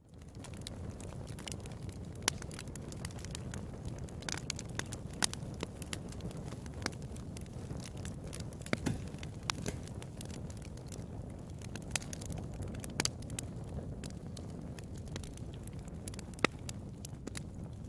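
Wood fire in a fireplace crackling: a steady low rush of burning with sharp pops at irregular intervals, a few of them louder than the rest.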